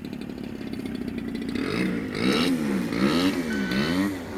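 Small 30cc two-stroke petrol engine, like a weed whacker's, running steadily and then revved up and down about three times, its pitch rising and falling with each blip.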